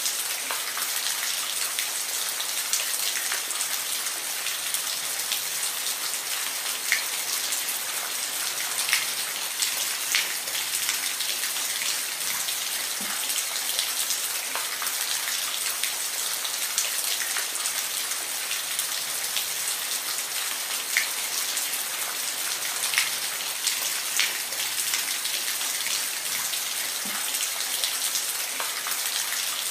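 Steady rain falling, an even hiss with frequent distinct drops ticking on a surface.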